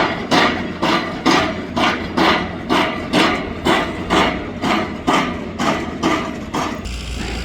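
Steady hammering, about two blows a second, over a low rumble; the blows stop shortly before the end.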